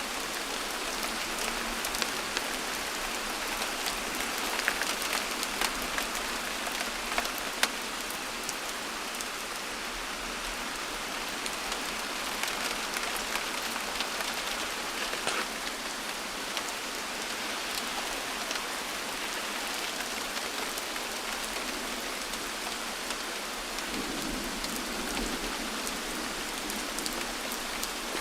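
Steady rain falling, an even hiss with many sharp individual raindrop hits.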